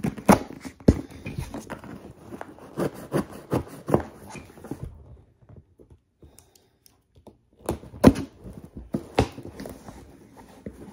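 Cardboard shipping box being torn and pried open by hand: a run of sharp knocks, rips and rustles, a pause of about three seconds in the middle, then more knocks.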